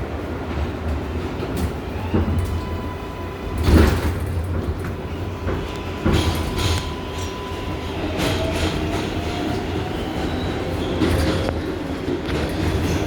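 R188 subway car of the 7 train running between stations: a steady rumble with wheels knocking over rail joints, the loudest knocks about four and six seconds in. A thin whine runs underneath and rises a little about two-thirds of the way through.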